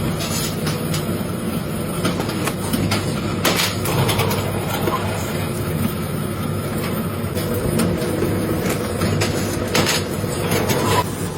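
Factory machinery running steadily with a low hum and frequent irregular clicks and knocks.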